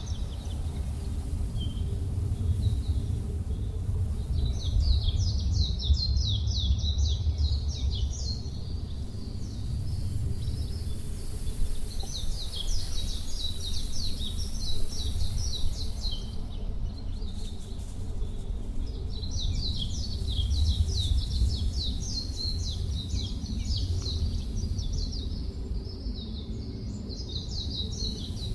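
Songbirds singing in phrases of rapid high chirps a few seconds long, with pauses between them, over a steady low rumble.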